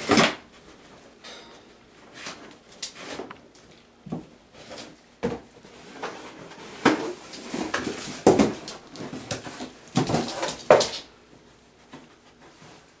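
Irregular knocks, clatters and scrapes of a young coyote rummaging in a treat-filled toy to get the food out. The sounds are busiest in the second half.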